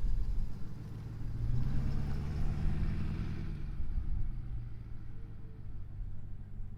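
Ford F250's 6.7 L Power Stroke turbodiesel V8 running with a steady low rumble. Its sound swells for about two seconds in the middle, with a rising rush of higher noise, then eases back.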